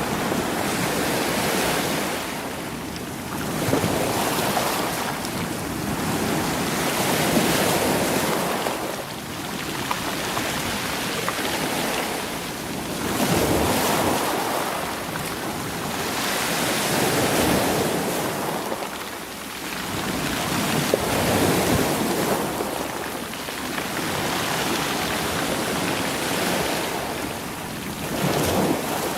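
Sea waves surging in against rocks and rolling stones, the wash swelling and falling back about every three to four seconds.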